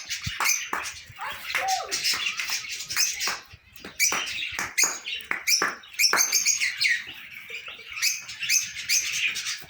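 Many small birds chirping and calling at once, a dense stream of short, sharp, high chirps overlapping without pause.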